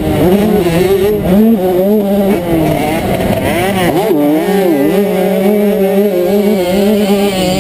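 Honda CR125 125 cc single-cylinder two-stroke motocross engine revving hard under racing throttle, its pitch wobbling as the throttle is worked, with a deep swoop down and back up about four seconds in.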